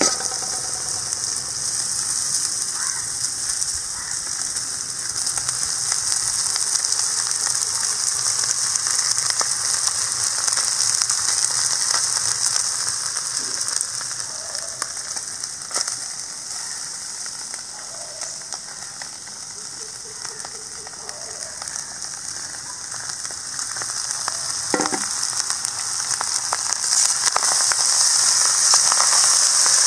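Vegetables and rice frying in a hot wok, a steady sizzling hiss that dips for a while as the rice goes in and grows again near the end, with a few sharp knocks of the metal ladle against the pan as the rice is stirred.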